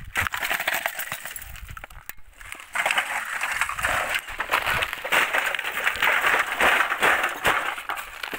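Crackling and scraping of dry debris and brush being rummaged through by hand while scrap metal is pulled out, growing louder about three seconds in.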